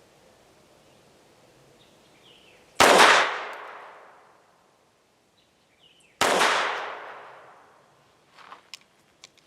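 Two shots from a FEG AP-MBP .32 ACP (7.65 mm) semi-automatic pistol, about three and a half seconds apart, each trailing off over a second or so. A few faint clicks follow near the end.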